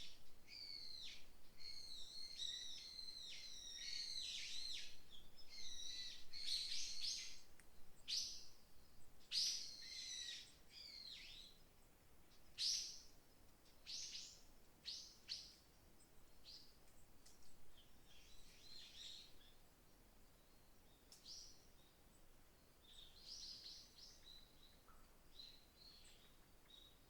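Woodland songbirds chirping and singing in quick, high phrases, busy for the first ten seconds or so, then thinning to scattered single calls.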